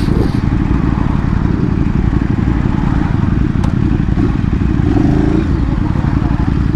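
Ducati Streetfighter 848 with a Termignoni exhaust being ridden, its L-twin engine running under heavy, steady wind buffeting on the camera's microphone.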